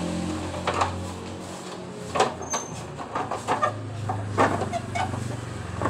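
A motor vehicle engine running with a low hum that dips about halfway through and comes back, with several sharp clicks or knocks over it.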